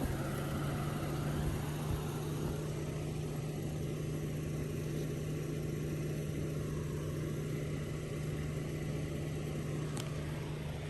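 Vehicle engine idling, a steady low hum that holds one pitch throughout.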